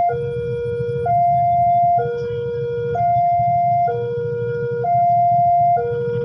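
Two-tone warning signal alternating between a higher and a lower note, each held about a second, over a steady low rumble.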